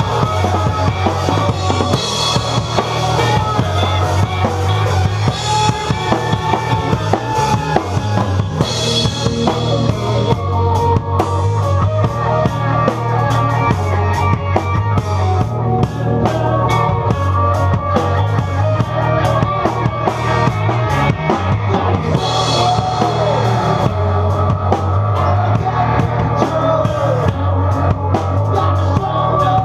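Rock band playing with the drum kit up front: kick drum and snare driving a steady beat under bass and guitar.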